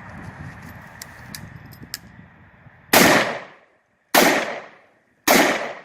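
Standard AR-15 rifle fired semi-automatic: three sharp shots a little over a second apart, starting about three seconds in, after a few faint clicks.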